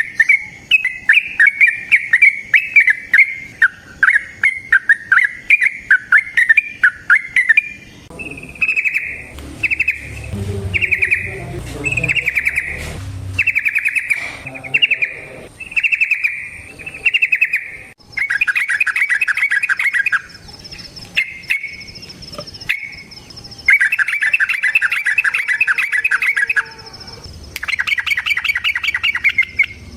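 Yellow-vented bulbul (trucukan) singing: a quick run of short chirping notes, then separate warbled phrases, then long, fast trilled runs several seconds each. This is the long rolling 'ropel' song used to lure and stimulate other bulbuls. A steady high buzz runs under the later part.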